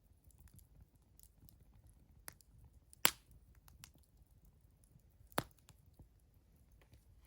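Wood fire crackling: a few sharp, scattered pops, the loudest about three seconds in and another about five and a half seconds in, over a faint low rumble.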